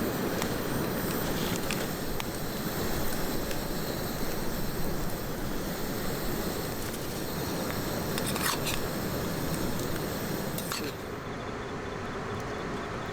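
Wood fire burning with a steady rush and occasional sharp crackles; near the end the high hiss drops away.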